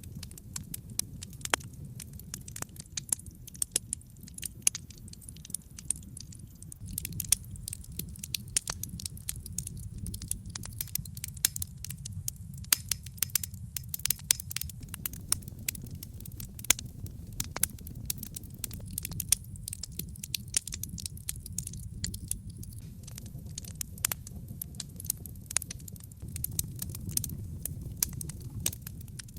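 Wood fire burning on logs in a brick fireplace: a steady low rumble of flame under many sharp, irregular crackles and pops.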